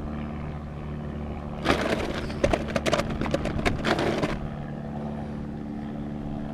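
A steady low motor hum with two stretches of irregular rattling and scraping, the first about two seconds in and a longer one just after.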